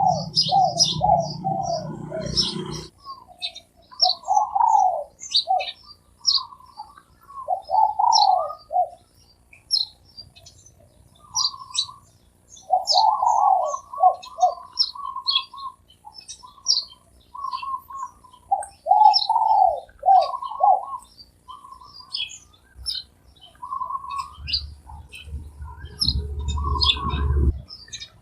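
Spotted doves cooing in repeated short phrases, with small birds chirping rapidly and continuously over them. A low rumble comes in for a few seconds near the end.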